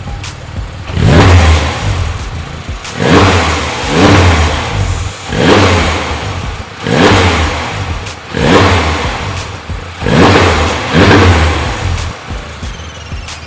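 Porsche 911 GT3 RS (991.2) naturally aspirated flat-six, fitted with an Akrapovic titanium slip-on exhaust, blipped about eight times, each rev rising sharply and falling back toward idle.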